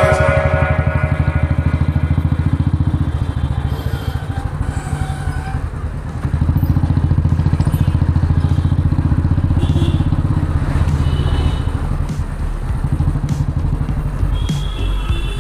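Motorcycle engine running at low road speed, heard from on the bike, a steady run of firing pulses; it gets louder about six seconds in as the throttle opens.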